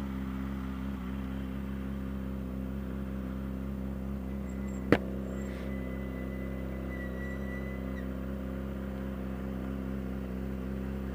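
Yamaha R6 motorcycle's inline-four engine running steadily, without any change in revs, with a single sharp click about five seconds in.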